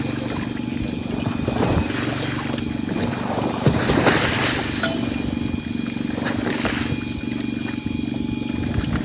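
Steady low drone of a fishing boat's engine running, with two short rushes of noise about four and six and a half seconds in.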